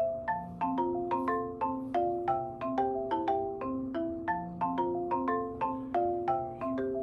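Background music played on a marimba-like mallet instrument: a steady stream of struck notes, several a second, in a light repeating melody.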